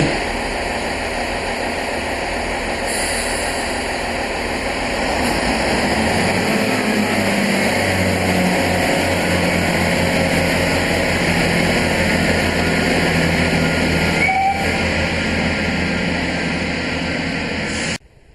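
Diesel train running past, a steady rumble with a pulsing engine note that comes in about six seconds in. There is a brief high tone about fourteen seconds in, and the sound cuts off suddenly near the end.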